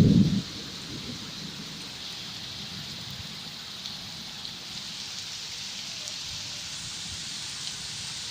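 Steady hiss of heavy monsoon rain falling, with a brief low rumble at the very start.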